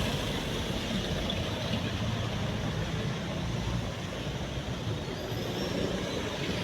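Street traffic noise: vehicle engines running with a steady low rumble.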